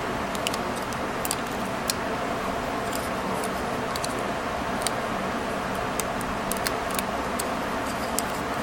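Irregular small, sharp metallic clicks from a metal staple remover being handled and its jaws worked, over a steady background hum.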